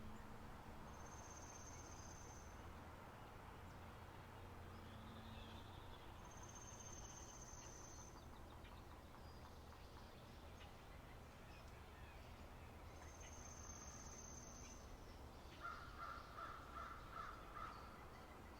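Faint spring-meadow birdsong: a high, thin whistled note held about a second and a half, heard three times. Near the end comes a quick run of about six short, lower calls.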